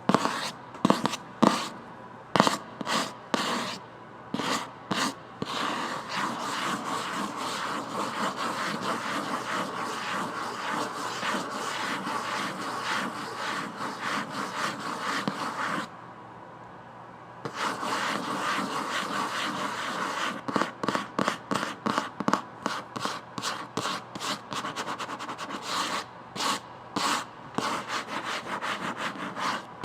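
Scratching and rubbing on a book close to the microphone. It starts as separate quick strokes, turns into dense continuous scratching that stops for a moment about halfway, and ends again in separate strokes.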